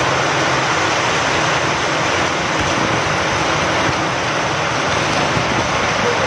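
Steady rain falling with wind, an even unbroken hiss.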